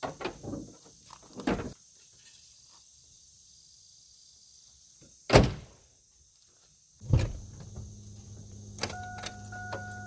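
A few clunks, then a pickup truck door slamming shut about five seconds in. About two seconds later the truck's engine starts and runs with a steady low hum, while a dashboard warning chime beeps in an even rhythm near the end.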